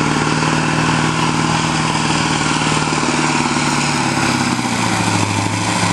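Semi truck's diesel engine running loud and steady during a truck pull, its pitch dropping about four seconds in.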